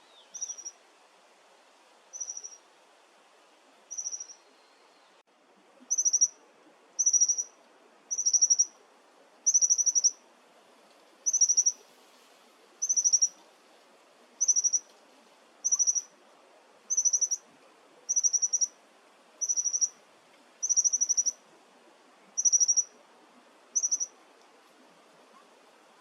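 Japanese accentor calling: short, high trilled notes repeated about every one and a half seconds, some sixteen in all, the first three fainter and the rest louder from about six seconds in.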